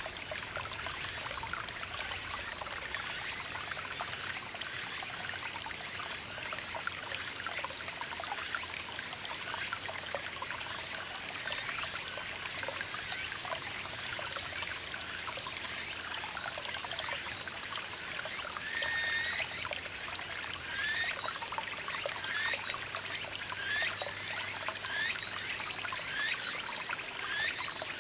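Small mountain stream trickling and burbling steadily. From about two-thirds of the way in, a short call that rises in pitch repeats roughly once a second over the water.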